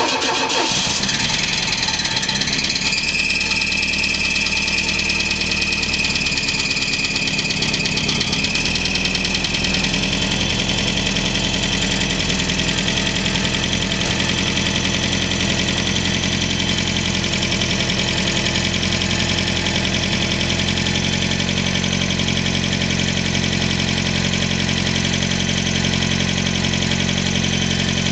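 Freshly rebuilt Ford 2.3-litre turbocharged four-cylinder engine running just after its first start, its idle note shifting about eight seconds in and then holding steady. A steady high whine runs over the engine from about three seconds in.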